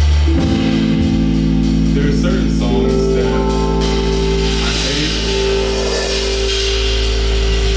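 Live band playing: sustained electric guitar and bass chords over drums and cymbals, the chord changing about half a second in.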